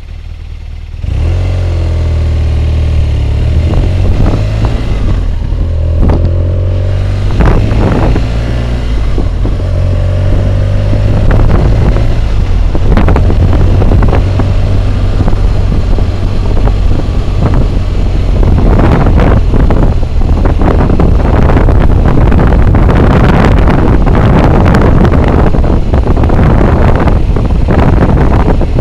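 BMW motorcycle engine pulling away and accelerating, heard through a helmet-mounted camera's microphone, with wind roar that thickens as speed builds. The sound gets abruptly louder about a second in.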